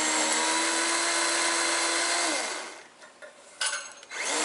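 Power saw cutting through a thick tree limb, its motor running at a steady whine. About two and a half seconds in, the motor is released and winds down with a falling pitch. After a brief noise, the saw starts up again near the end.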